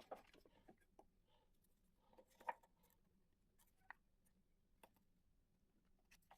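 Near silence broken by a few faint, scattered clicks and light knocks, the loudest about two and a half seconds in: small handling sounds of oak pieces being fitted and glued together.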